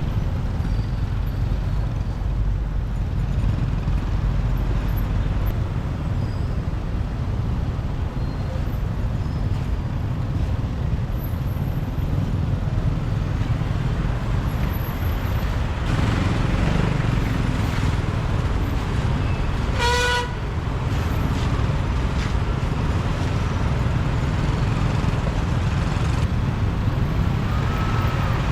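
Motorbike riding through city traffic: a steady low engine and road rumble, with one short vehicle horn toot about twenty seconds in.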